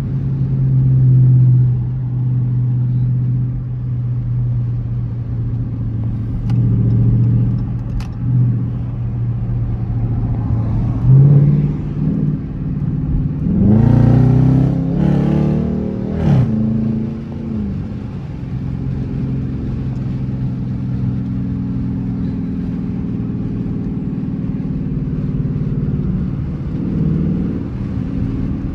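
Dodge Charger R/T's V8 engine running under way, then revving up hard from about eleven seconds in through a short full-throttle pull with the pitch climbing and dropping, before settling back to a steady drone.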